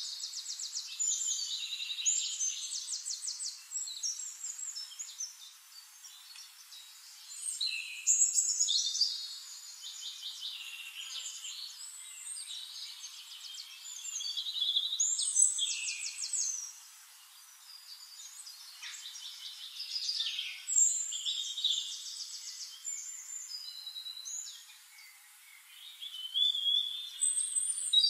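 Birds singing and chirping, many rapid high trills and chirps overlapping, swelling louder every few seconds.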